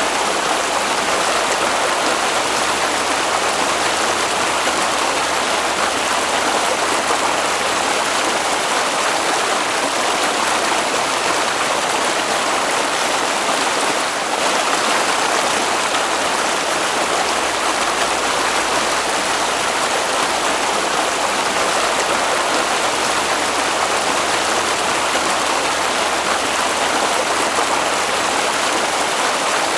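Flowing water of a stream, a steady, unbroken rush.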